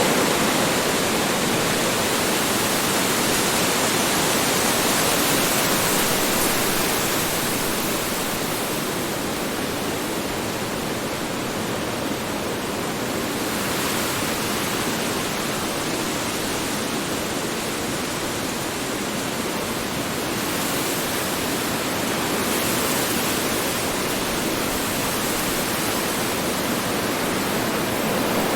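Strong wind blowing steadily as a dense rushing noise, swelling and easing slowly over several seconds.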